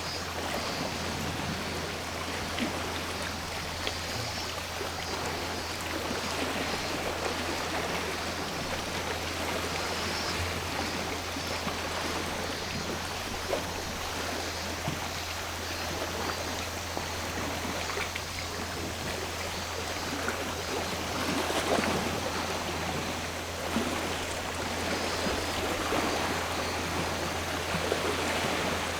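Sea surf washing ashore in a continuous wash of noise, swelling louder about three quarters of the way through.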